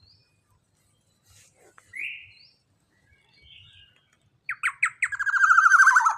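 Young black-naped oriole (kepodang) calling: a short rising note about two seconds in, then, after a couple of sharp notes, a loud, fast trill that slides down in pitch near the end.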